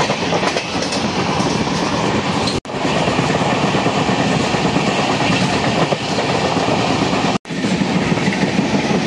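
Moving passenger express train: steady loud running noise of the coaches and the wheels on the rails. The sound cuts out for an instant twice.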